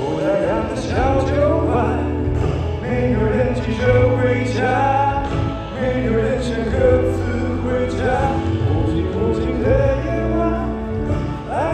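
Live pop ballad performance: a singer's voice carrying a wavering melody over a band with sustained bass notes.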